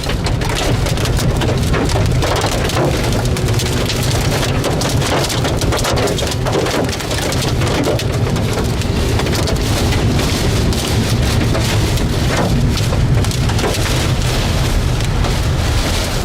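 Heavy rain during a thunderstorm, a dense spray of drop impacts hitting a surface over a steady low rumble.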